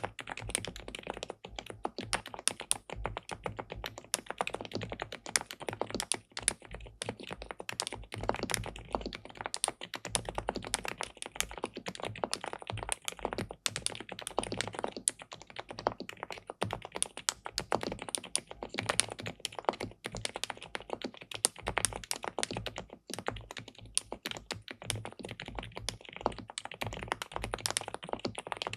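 Continuous typing on an SPM PL87W Mongdol87 hot-swap TKL mechanical keyboard with a PC plate and linear switches: a dense, uneven run of many quick keystrokes with no pauses.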